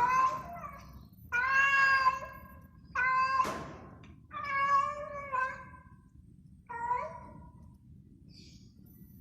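Mother cat meowing repeatedly in about five drawn-out, mournful calls, the crying of a queen that has lost her four kittens.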